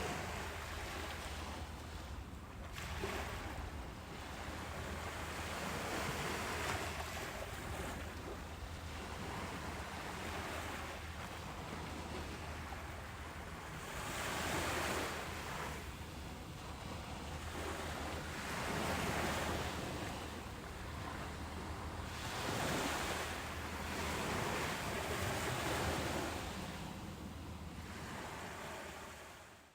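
Ocean waves breaking and washing on a beach, swelling and easing every few seconds over a steady low rumble of surf. The sound fades out right at the end.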